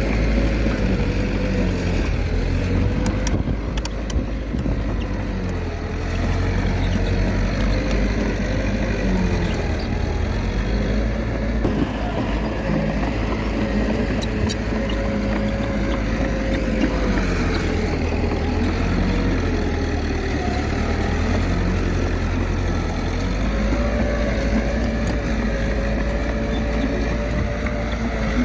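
Small Komatsu D21A bulldozer's diesel engine running steadily under load, its pitch dipping and rising again and again as it works. A couple of sharp clicks are heard along the way.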